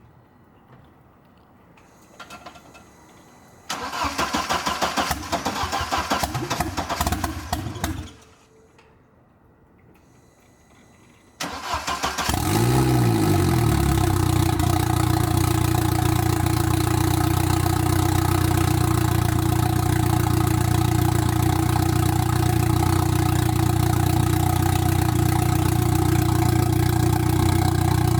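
Audi B5 1.8T turbocharged four-cylinder engine cold-started: it cranks for about four seconds without catching, is cranked again about eleven seconds in and catches, flares and settles into a steady idle. It is running on 91 pump fuel just after the E85 was drained, which the owner expects to make it run rough.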